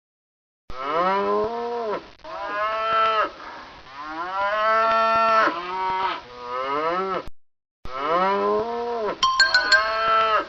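Cattle mooing: a series of long calls, each rising and then falling in pitch, with a short silent break partway through. A few short ringing strikes come near the end.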